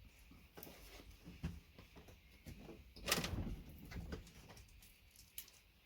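Faint clicks and knocks of steel pliers and side cutters handling a VGA connector, with a louder crackling scrape about three seconds in as the connector is twisted apart.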